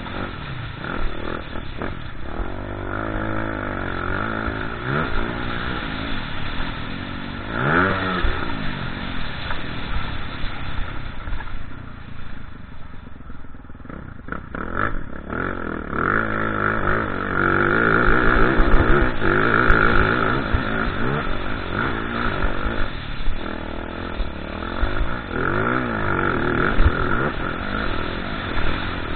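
Motocross dirt bike engine revving up and falling back over and over, as when riding a track through jumps and corners, with a quieter lull about halfway through.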